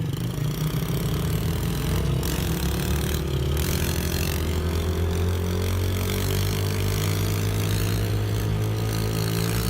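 Small single-cylinder pit bike engine running steadily, its pitch slowly rising as the revs climb.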